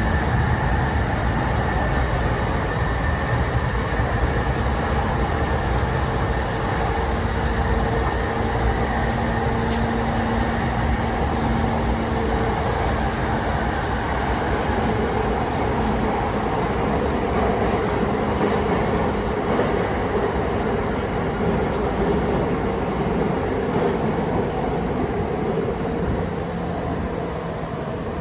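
Cabin running sound of a JR E233 series 5000-subseries electric train, heard from inside the car: a steady wheel-on-rail rumble with held traction-motor and gear hum tones. The level eases off slightly near the end.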